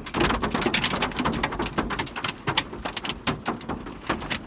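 Hail pelting a car's roof and windows from inside the car: a dense, uneven patter of hard ticks.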